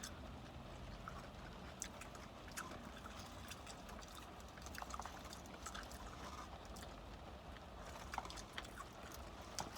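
Faint chewing and crunching of fried chicken, with scattered small clicks and crackles, over a low steady hum inside a car.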